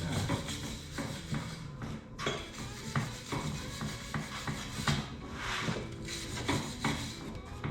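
Irregular clinks, knocks and scrapes of metal parts and tools being handled during a rear-end teardown.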